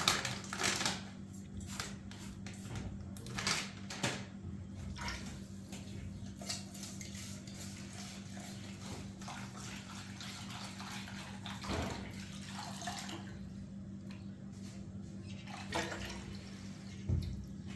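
Scattered light clinks and knocks of dishes and utensils being handled, over a steady low hum.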